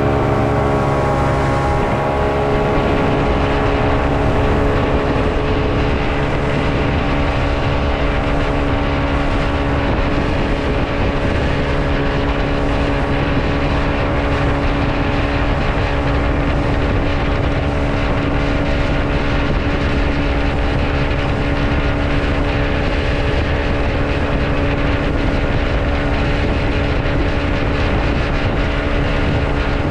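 Motorboat engine running steadily under way over a continuous rush of noise; its pitch shifts in the first couple of seconds, then holds.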